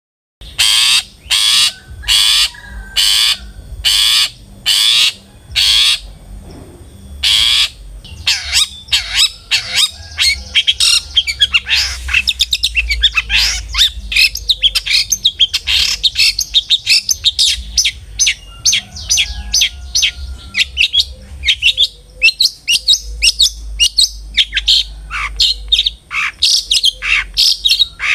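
Long-tailed shrike (cendet) singing. It opens with a run of about eight harsh, scratchy calls, then from about eight seconds in breaks into a fast, continuous chattering song of short notes, used as a lure to set other cendets singing.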